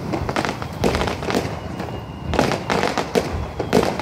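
Aerial firework shells bursting overhead: a quick run of sharp bangs and crackles, easing briefly about halfway through before picking up again.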